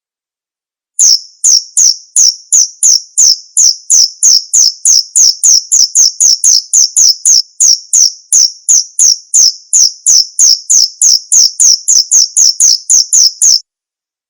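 Male cricket chirping, about three high chirps a second in an even run. It starts about a second in and cuts off suddenly near the end.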